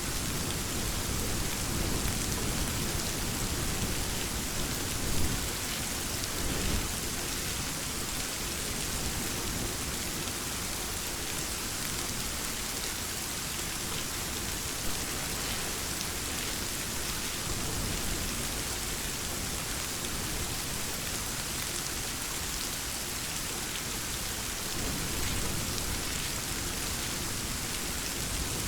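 Steady rain falling, an even hiss with a few sharper drop hits. Low rumbles of thunder swell in the first several seconds and again near the end.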